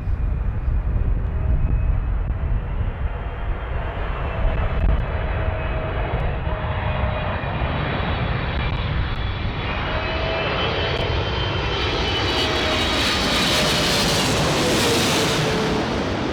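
Boeing 777-300ER's GE90 turbofan engines whining as the airliner flies past, growing steadily louder to a peak near the end, with the engine tones dropping slightly in pitch as it passes. Wind rumbles on the microphone throughout.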